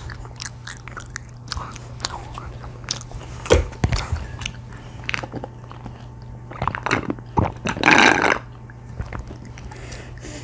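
Close-miked chewing and mouth sounds of people eating fried cheese sticks: wet smacks and small clicks, with a louder, longer noisy burst about eight seconds in. A steady low hum runs underneath.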